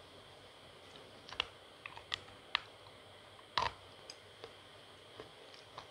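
Dry, crisp crunching of someone biting and chewing a crumbly, powdery chalk-like lump: about seven sharp crackles between one and a half and four and a half seconds in, the loudest about three and a half seconds in.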